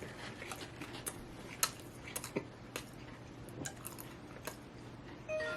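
A person chewing a mouthful of fried fish sandwich, with scattered wet mouth clicks and smacks over a low room hum. A short pitched tone sounds near the end.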